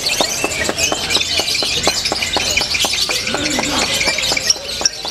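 Lovebirds singing in a contest: many birds at once, a dense, fast, high-pitched chirping and trilling.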